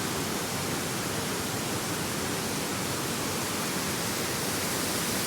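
Mountain waterfall swollen with snowmelt, a steady rush of falling water.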